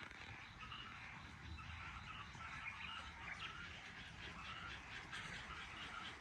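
A chorus of many frogs croaking at once, short repeated calls overlapping in a continuous faint din.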